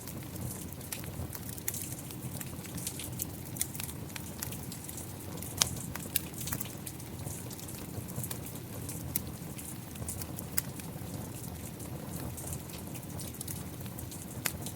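Steady rain with a wood fire crackling: a constant low rush under scattered sharp pops and crackles, one louder pop about five and a half seconds in.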